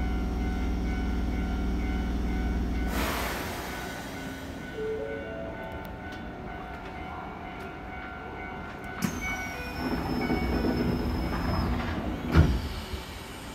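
Keisei 3000 series electric train standing still, its onboard equipment giving a steady low hum that stops about three seconds in with a short burst of air hiss. After a quieter stretch of small clicks and short tones comes a single sharp thump near the end.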